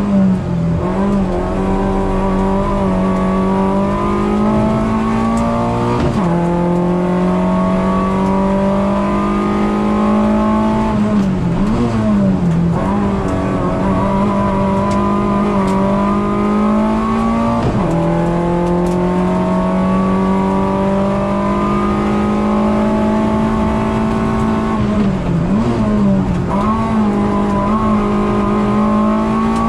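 Racing car's engine heard from inside the stripped, caged cabin, pulling hard at high revs. The revs climb steadily and drop sharply on upshifts about six seconds in and again just before eighteen seconds. The revs dip and blip briefly around twelve seconds and again around twenty-five seconds, where the driver lifts off and changes down.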